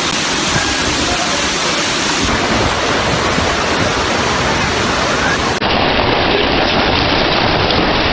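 Loud, steady rush of a heavy storm downpour, with an abrupt change to another storm recording about five and a half seconds in.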